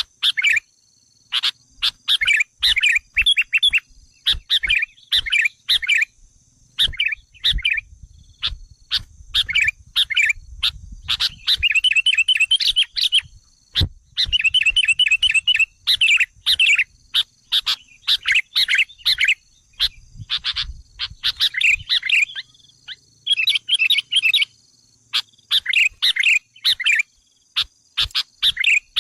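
Sooty-headed bulbul (kutilang) lure call: quick runs of short, chattering calls and brief rattling trills, broken by short pauses. This is the excited call played to provoke wild bulbuls.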